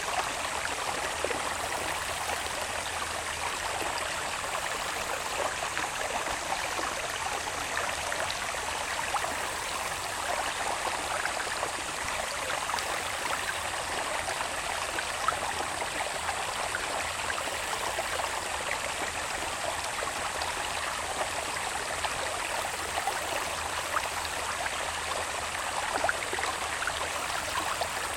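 A small water channel babbling steadily, with scattered little splashes, under a faint, steady high-pitched drone of insects.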